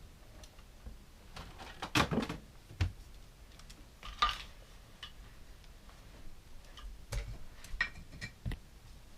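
Toy train track pieces being handled and fitted together: scattered clicks and clatters, the loudest about two seconds in and again about four seconds in, with a run of small knocks near the end.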